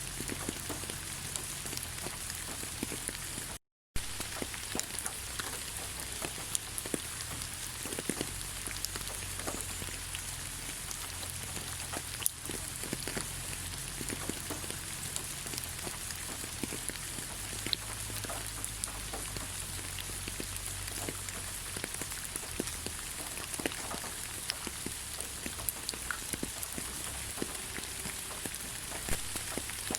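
Steady rain falling on leaves: an even hiss with many small, scattered drop ticks, broken by a brief total dropout just before four seconds in.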